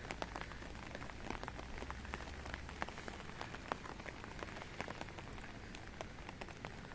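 Steady rain falling, with many separate drops ticking irregularly close by.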